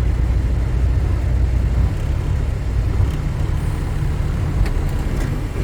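Semi-truck's diesel engine running, a steady low rumble heard inside the cab.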